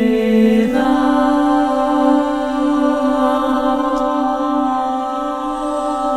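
Unaccompanied choral singing: a choir holds a sustained chord, moves to a new one about a second in, and holds it.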